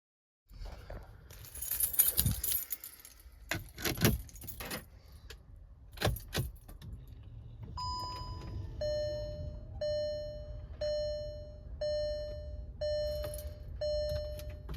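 Keys jangling and clattering in a car interior, with a few knocks, then a single short beep followed by a vehicle warning chime sounding six times, about once a second.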